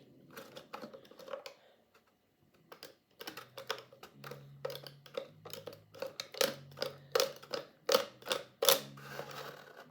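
Thin plastic water bottle clicking and crackling as holes are pierced in it with the point of a retractable craft knife: a string of sharp clicks, sparse at first and then coming two or three a second.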